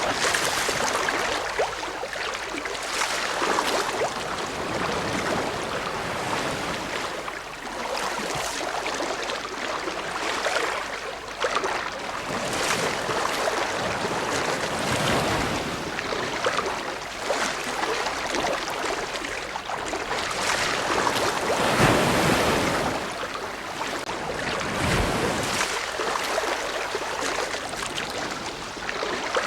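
Ocean waves washing ashore: a steady rush of surf that swells and eases every few seconds, with one stronger surge about two-thirds of the way through.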